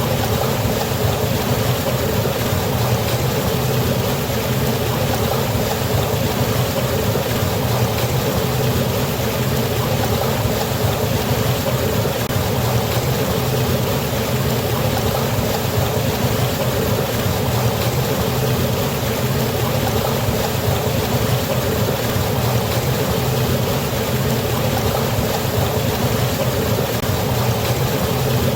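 Waterfall on a river: a steady, unbroken rush of falling water with a deep low rumble beneath it.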